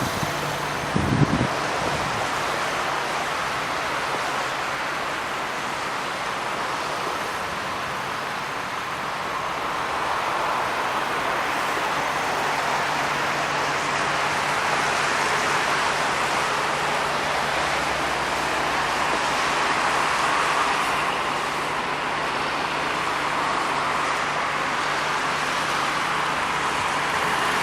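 Steady motor-vehicle and road-traffic noise with a low engine hum, and a short thump about a second in.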